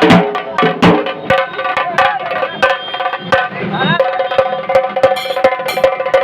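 A dhol-tasha band playing: fast, sharp drum strokes under a pitched melody that slides up into a long held note about four seconds in.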